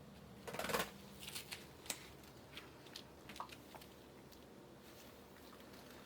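Kittens playing: a short scraping rustle about half a second in, the loudest sound, then a scatter of small clicks and taps over the next three seconds.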